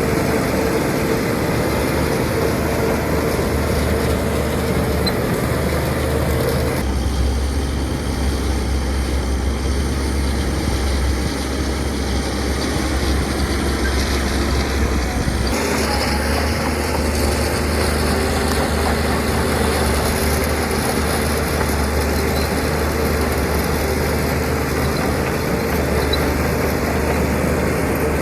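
Diesel engines of heavy earthmoving machinery running steadily. The sound changes abruptly twice, about seven seconds in and again about halfway through.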